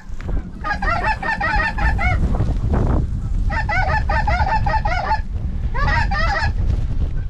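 Snow geese calling: rapid runs of short, high-pitched honks in three bursts, over a steady low rumble of wind on the microphone.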